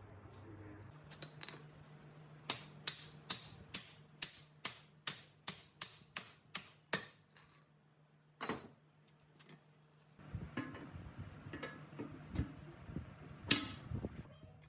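About a dozen sharp, evenly spaced taps, a little over two a second, then a single knock and, near the end, a stretch of irregular knocking and clatter, like hand work on a machine part.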